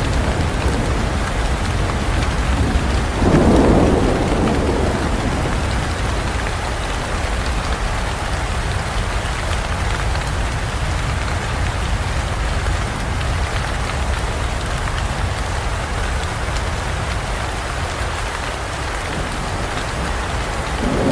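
Steady heavy rain falling in a forest, with a roll of thunder about three seconds in and another building near the end.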